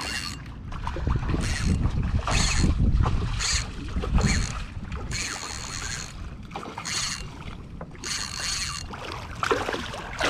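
Noises of a big snook being fought and landed beside a kayak: about eight short scratchy bursts in ten seconds, over a low rumble of water and wind on the microphone.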